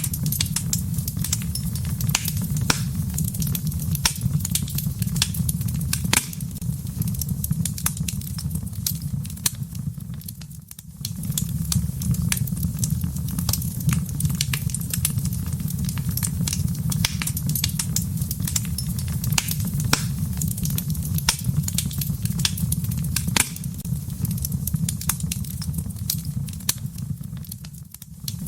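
Wood fire crackling in a fireplace: a dense run of sharp pops and snaps over a steady low rumble of burning, dipping briefly in level twice.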